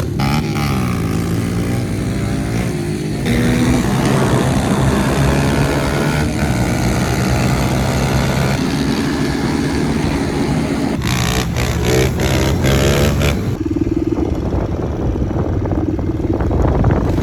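Pit bike engines revving hard, the pitch climbing and dropping again and again as the bikes accelerate and shift. A stretch of rushing noise comes in about two-thirds through, and the engine then settles to a steadier note near the end.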